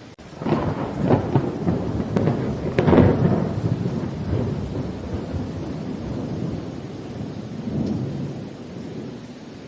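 Thunder over steady rain: a crackling clap breaks about half a second in, with a louder peak around three seconds, then dies down into the rain with a smaller swell near the end.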